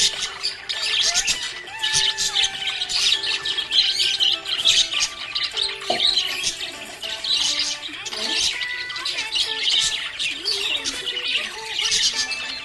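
A flock of budgerigars chirping and chattering continuously, with rapid overlapping high chirps and squawks, over background music with held notes.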